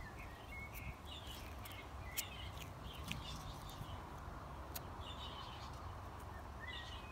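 Small birds chirping faintly in short, scattered calls over a steady low outdoor rumble, with a few light clicks.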